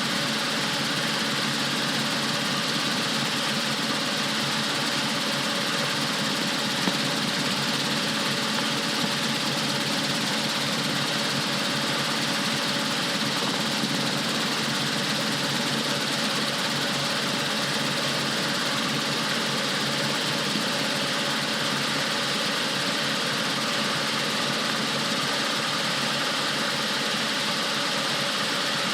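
Rotorway 162F helicopter's piston engine and rotors running at a steady speed, a constant drone with no change in pitch or loudness.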